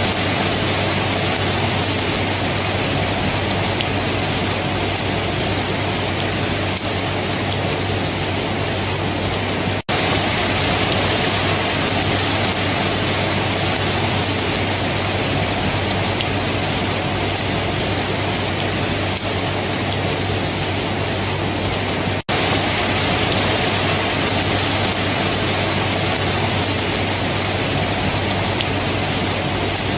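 Steady rain falling, an even hiss with a low hum underneath. The sound cuts out for an instant twice, about 10 and 22 seconds in.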